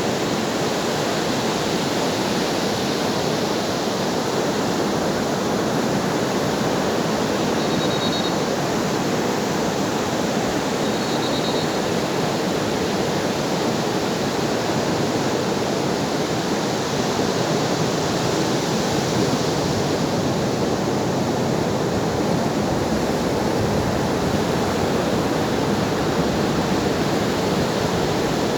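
Ocean surf: a steady, dense wash of breaking waves with only gentle swells in level.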